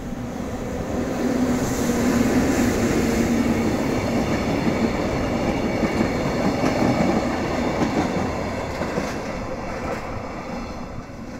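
EF65 electric locomotive hauling four empty Chiki 5200 flat wagons running past at close range: wheels rumbling on the rails with a low hum as the locomotive goes by. It swells over the first two seconds and fades over the last few as the train pulls away.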